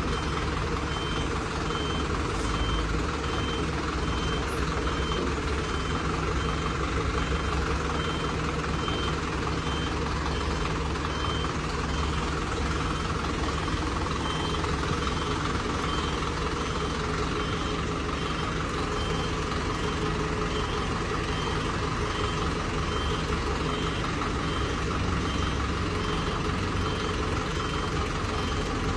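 Heavy truck's diesel engine running steadily, with a high warning beeper sounding in short, evenly repeated beeps.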